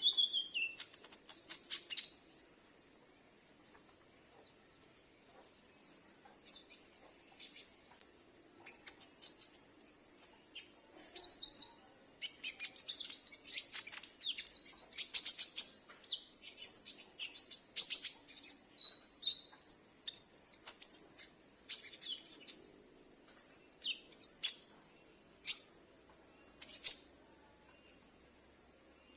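Olive-backed sunbird (konin) calling: sharp, high chirps and short twittering phrases. After a few seconds' pause early on they come in a busy run, then thin out to single spaced notes near the end.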